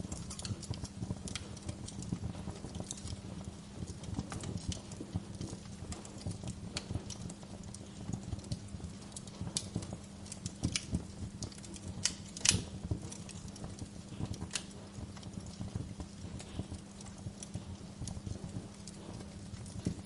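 Wood fire crackling, with irregular sharp pops and snaps over a steady low hum; the loudest pop comes about twelve seconds in.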